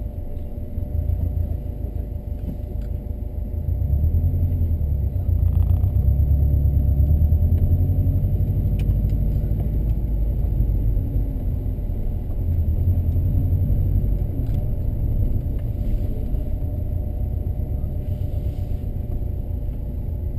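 Engine of a 1993 Subaru Legacy turbo, a turbocharged flat-four breathing through a K&N filter and a 2.5-inch cat-back exhaust, heard from inside the cabin while driving slowly. It runs as a low rumble that grows louder a few seconds in as the car pulls away, eases, and swells again past halfway.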